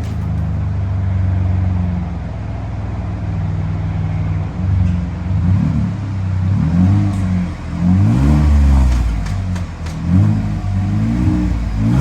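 A 2022 Chevy Colorado's V6 running through a custom split dual performance exhaust. It idles steadily for about four seconds, then is revved in a series of about five short throttle blips, each rising and falling.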